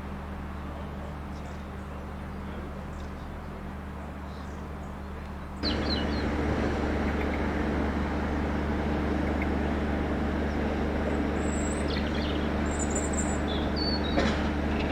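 Class 33 diesel locomotive's Sulzer eight-cylinder engine idling steadily. About a third of the way in, the sound steps up suddenly, louder and fuller, and birds chirp over it in the second half.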